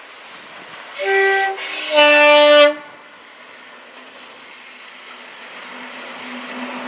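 Two-tone horn of a Class 37 diesel locomotive: a short high note, then a slightly longer, louder low note. After the horn, the locomotive's English Electric engine drone grows steadily louder as it approaches.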